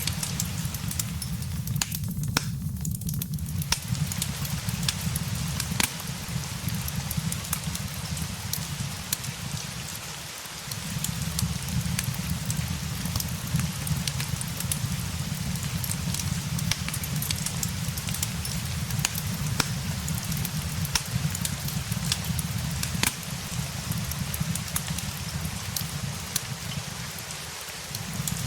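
Steady rain mixed with a crackling fireplace: an even patter with scattered sharp crackles and pops over a low rumble, which briefly dips away twice.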